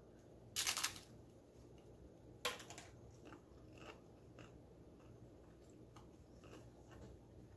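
A person crunching into a blue corn tortilla chip topped with bean salad: two loud crunching bites, about half a second in and again at two and a half seconds, then faint crackly chewing.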